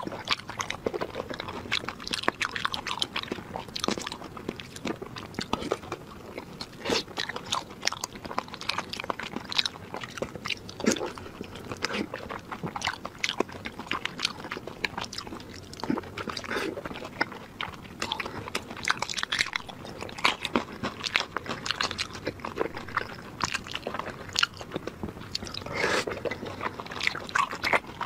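Close-miked wet chewing and biting of fatty, saucy meat: a steady stream of quick mouth clicks and smacks, with a few louder bites.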